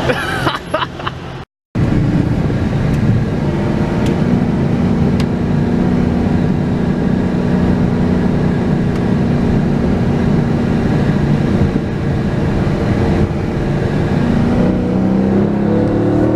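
A car's engine and road noise while driving at speed, with a steady hum. The engine note rises near the end as the car accelerates. The sound cuts out briefly about a second and a half in.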